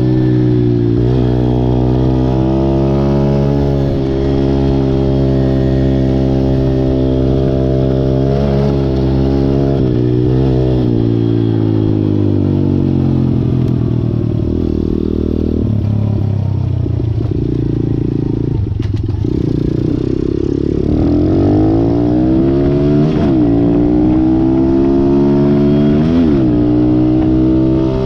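Malcor XZ1 125cc pit bike's single-cylinder four-stroke engine running under throttle: it holds a steady mid pitch with a few short blips, drops to lower revs through the middle, then climbs again with two sharp throttle blips near the end.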